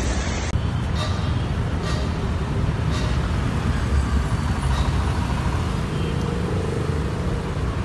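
Steady low rumble with a hiss over it from a flooded street in heavy rain. The sound changes at a cut about half a second in.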